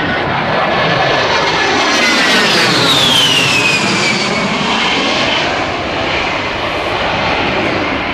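Aircraft engine roaring as a plane flies low past, with a high whine that drops in pitch as it goes by, about three seconds in.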